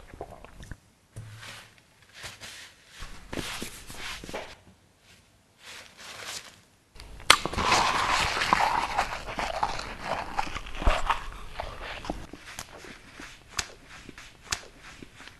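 Close-up crunching and chewing mouth sounds in irregular spurts with short pauses. They grow denser and louder from about seven seconds in, then ease off.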